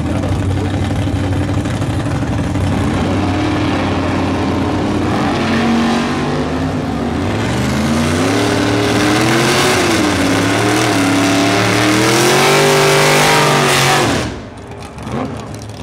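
Drag-racing muscle car engine running loud and steady, then revving up and down through a burnout, with a rising hiss from the spinning rear tyres. The sound drops away sharply about fourteen seconds in.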